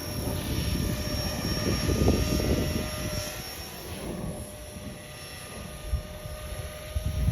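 Small electric RC helicopter (T-Rex 450 with EC 145 scale body) flying, its brushless motor and rotors giving a steady whine, under heavy wind buffeting on the microphone that rises in gusts.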